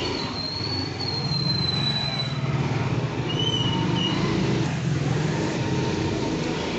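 Motor scooter on the move: the engine runs steadily under road noise, with a thin high whistling tone over the first couple of seconds.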